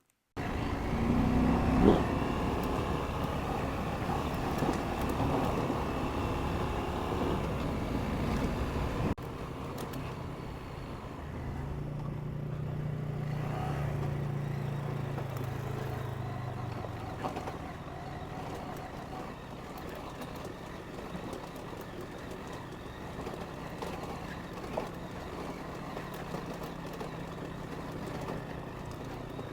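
KTM 890 Adventure parallel-twin engine running while the motorcycle is ridden, with wind and road noise. The sound drops abruptly about nine seconds in, and a steady engine hum stands out between about eleven and seventeen seconds.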